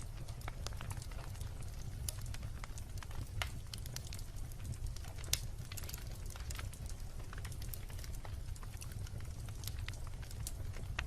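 Wood bonfire crackling: irregular sharp pops and snaps over a steady low rumble, with one louder pop about five seconds in.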